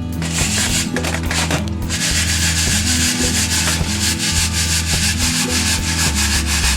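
Coffee beans rattling and swishing as they are shaken in a hand roaster. The fast, rhythmic rasp builds up strongly about two seconds in, over background music.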